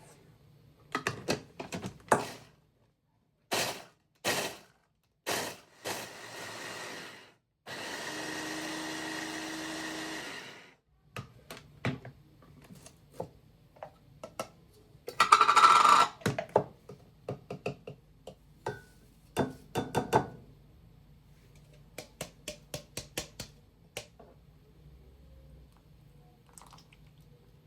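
Kitchen work: a series of separate clicks, knocks and clatters of objects being handled and set down, with a steady rushing sound lasting about three seconds near the middle and a louder short burst of noise a little later.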